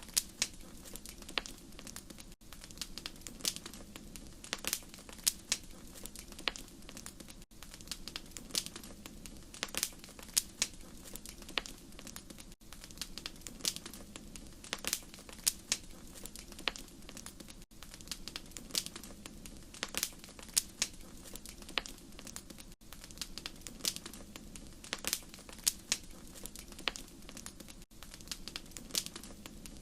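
Wood fire crackling: a dense, irregular run of sharp pops and snaps over a low steady hiss of flame, with a brief dip in sound about every five seconds.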